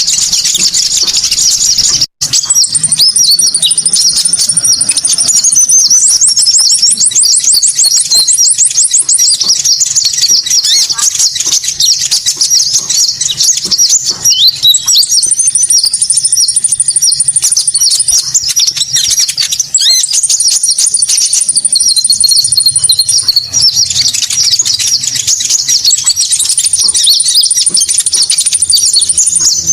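Dense, continuous high-pitched chirping and twittering of small songbirds, played as a lure call for Konin birds. High thin trills are held for a few seconds at a time, four times over, with a brief drop-out about two seconds in.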